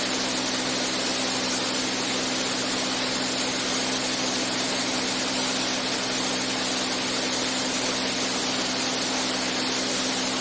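Steady drone of a Beechcraft A36 Bonanza's piston engine and propeller in level cruise, heard in the cockpit as a constant hum under an even hiss.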